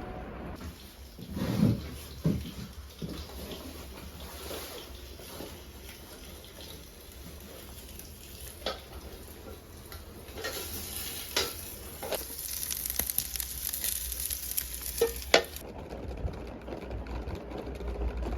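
Scattered knocks and clinks of household work, with a hiss of water or frying from about ten seconds in that cuts off suddenly about five seconds later.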